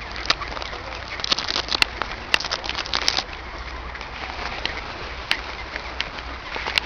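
A flock of ducks and swans being fed: a dense, irregular crackle of short clicks and splashes.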